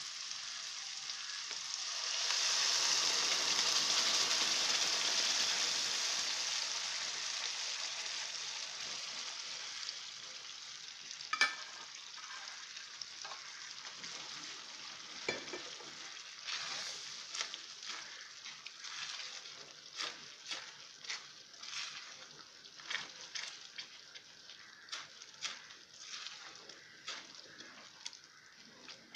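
Tomato-and-garlic tempering sizzling in oil in a nonstick wok, swelling sharply about two seconds in as the cooked moong dal goes in, then dying down over several seconds. From about halfway on, a spatula scrapes and taps against the wok while the dal is stirred, roughly one or two strokes a second.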